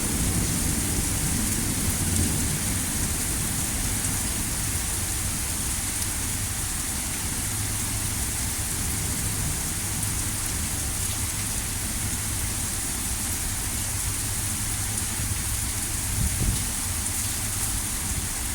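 Heavy rain pouring steadily, a constant hiss with a low rumble underneath that is heavier for the first couple of seconds, then eases.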